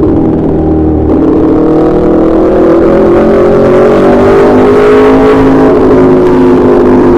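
Aprilia RSV4 RF's V4 engine through an SC Project S1 slip-on exhaust, loud, pulling up steadily in pitch for about four seconds after a short dip about a second in, then easing off slightly near the end.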